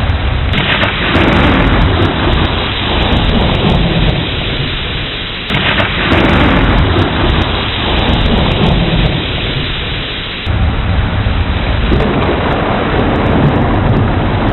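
Thunderstorm: steady heavy rain with rolling thunder. The thunder breaks in sharply three times, about half a second in, near the middle and about two-thirds through, and each time rumbles and fades away over several seconds.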